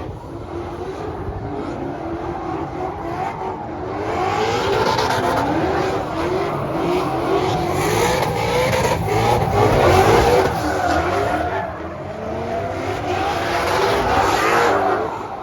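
Three drift cars running together in a tandem drift: engines revving up and down in quick swings of pitch over squealing tyres. Loudest about ten seconds in and again shortly before the end.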